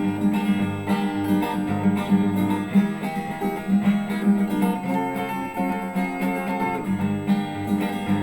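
Acoustic guitar strummed in a steady rhythm, changing chords a few times, as the accompaniment between sung lines of a song.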